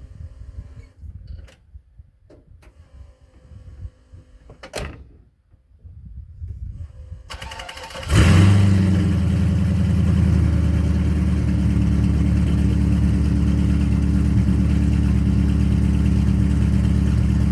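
Vehicle engine cranked over briefly and catching about eight seconds in with a quick rise in revs, then settling into a steady idle. Light knocks and rustling come before it.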